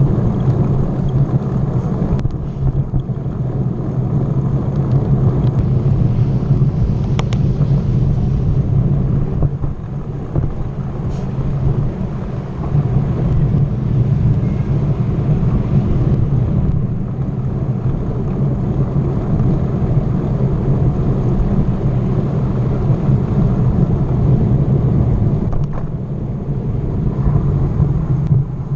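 Wind buffeting a microphone carried on a moving bicycle, a steady low rumble that rises and falls in strength.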